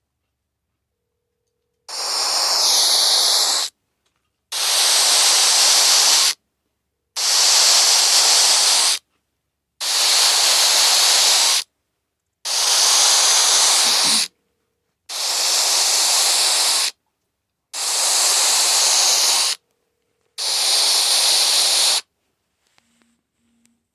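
A phone's ring signal coming through as bursts of hissing static instead of a ringtone: eight even bursts of about two seconds each, with short silent gaps, in a regular ring rhythm. The first burst carries a falling whistle-like tone within the hiss. The owner takes it for a sign that his phone is under surveillance.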